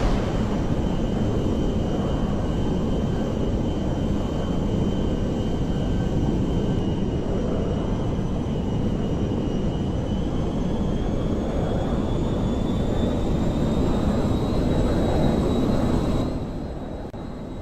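Large airliner's jet engines running: a steady rumble with a high turbine whine that rises in pitch from about halfway through, then the sound drops off abruptly near the end.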